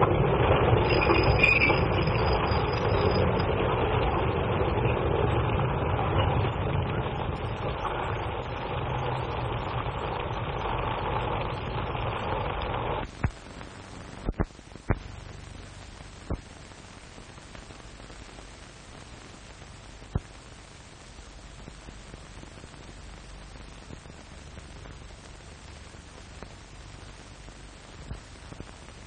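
Train running noise, loud at first and slowly fading, which cuts off suddenly about 13 seconds in. After it only the hiss of an old film soundtrack remains, with a few sharp pops.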